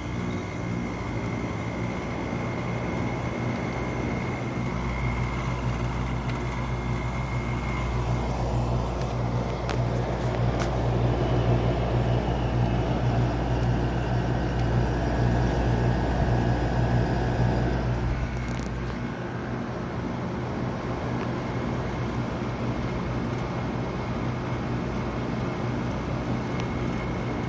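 A General Electric 5100 BTU window air conditioner with a Qingan compressor running through its start-up, with a steady hum. A deeper hum comes in about five seconds in, a rush of air builds and grows louder in the middle, and the deep hum drops away near nineteen seconds. A space heater rattles in the background.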